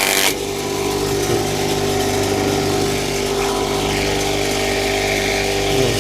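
Small electric grass chopper running with a steady motor hum while odot grass stalks are fed through its blades. A loud burst of chopping ends just after the start, then lighter cutting continues as the grass is fed in slowly and held back for a fine chop. The motor's pitch dips briefly under load near the end.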